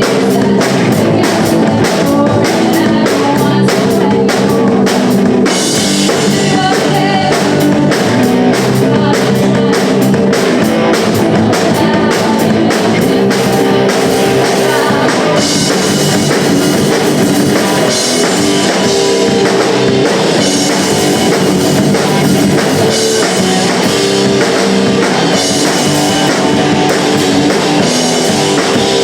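Live punk rock band playing loud and fast on drum kit, electric guitars and bass, with a driving beat; crashing cymbals come in about five seconds in.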